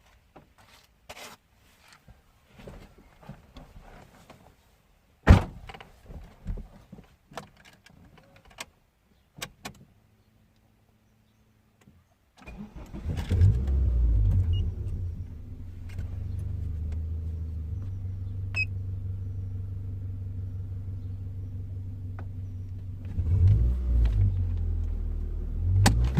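Scattered clicks and knocks for the first half, then a Honda VTEC engine cranks and catches about halfway through, settles into a steady idle, and is revved a few times near the end.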